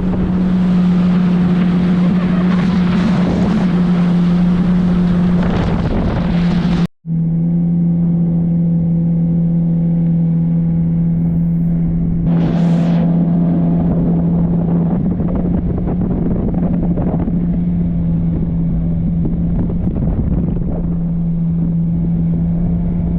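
2018 Yamaha FX HO jet ski's four-stroke engine running at a steady cruising speed under way, with rushing wind and water noise. About seven seconds in the sound cuts out for an instant and resumes duller, with the same steady engine tone.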